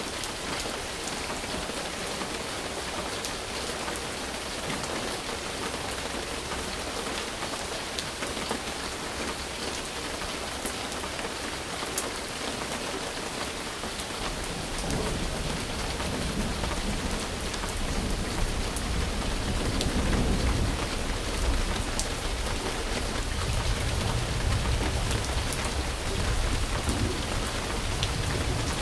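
Steady rain falling, with scattered sharp drop ticks. About halfway through, a low rumble of thunder comes in and grows louder.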